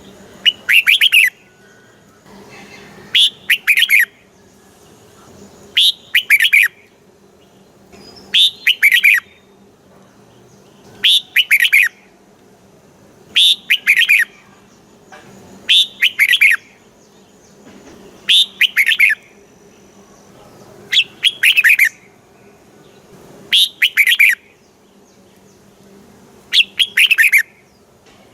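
Red-whiskered bulbul singing the same short, quick phrase of a few chirps over and over, once about every two and a half seconds.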